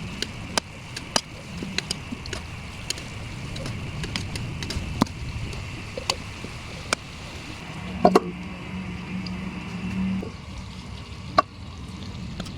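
Food cooking in a pan: a steady sizzle with irregular sharp pops and clicks scattered through it.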